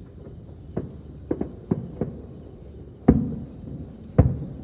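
Distant aerial fireworks bursting: about five quick sharp pops, then two much louder bangs about a second apart, the first trailing off in a low rumbling echo.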